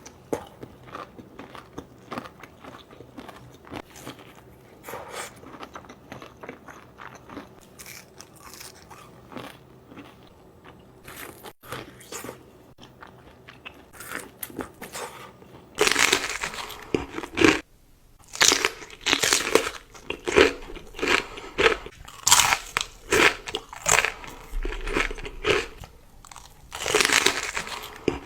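Close-miked eating: chewing and biting into crisp food with irregular crunches. The crunches get louder and sharper a little past halfway.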